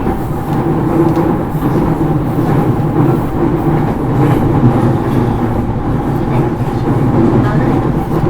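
Steady running noise of a JR East E231 series electric train, heard inside motor car MoHa E231-1101 while it runs between stations: a loud, even rumble of wheels on the rails with a held mechanical hum.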